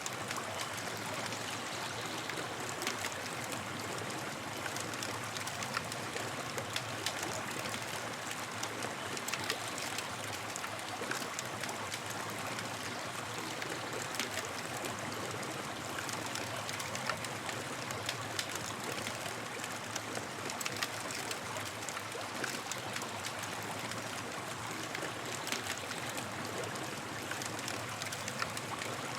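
Campfire crackling: scattered sharp pops and snaps over a steady rushing hiss.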